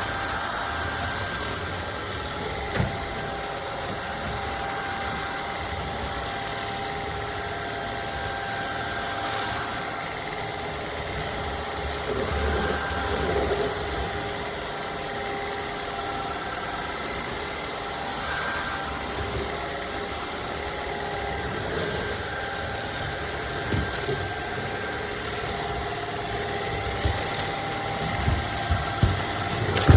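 Shark cordless stick vacuum's motor running steadily with a constant hum and whine, and a few short knocks near the end.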